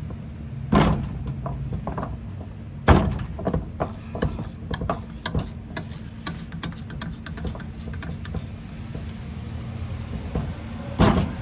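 Clicks, clanks and knocks of hand tools on the metal parts of a brake booster being taken apart, with louder knocks about a second in and near three seconds and a quick run of clicks after. A steady low hum runs underneath.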